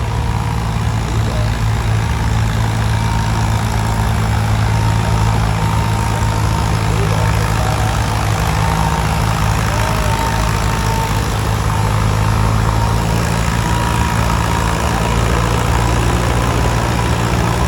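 International 400 antique tractor's engine running steadily at an even, low pitch, with no revving up or down.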